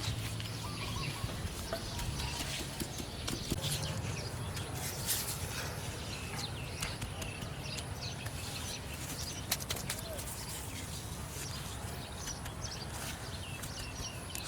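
Small birds chirping over and over, with a steady low background and a few light taps.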